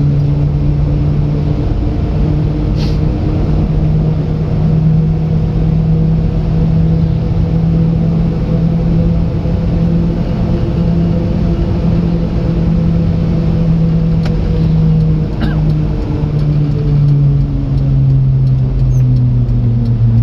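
Japanese mini truck's engine running steadily under way, heard from inside the cab, with a brief dip about fifteen seconds in and the engine note falling slowly near the end.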